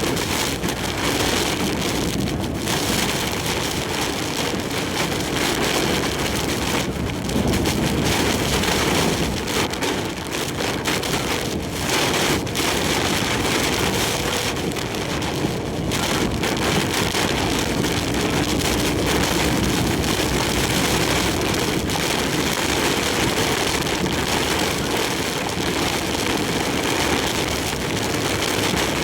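Heavy typhoon rain and strong wind hammering a moving large truck, with road noise underneath: a steady, dense roar without letup.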